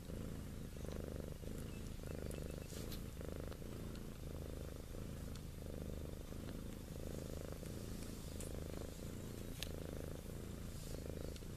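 Mother cat purring steadily, the purr swelling and fading with each breath about once a second.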